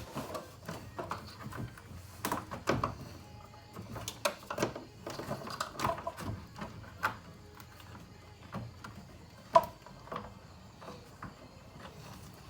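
Irregular plastic knocks, clicks and scrapes of a radiator cooling fan assembly being worked down into place against the radiator, with one sharp knock about three-quarters of the way through.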